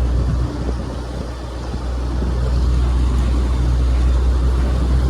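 Steady low engine hum with an even hiss over it. It dips a little in loudness about half a second to two seconds in.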